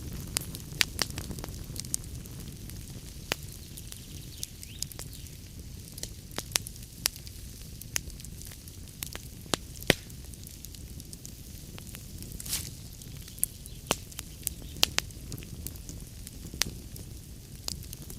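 Wood fire crackling in a fireplace: a steady low rumble of flames with irregular sharp pops and snaps from the logs, the loudest about ten seconds in.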